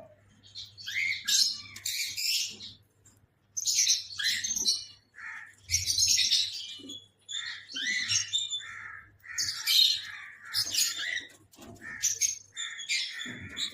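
A colony of caged pet birds squawking and chirping in harsh bursts every second or two.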